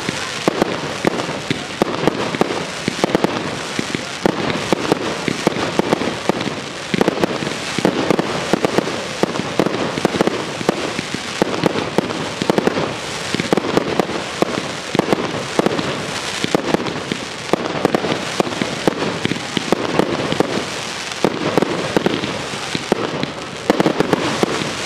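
Aerial fireworks going off in a dense, unbroken string of bangs and crackling, several a second.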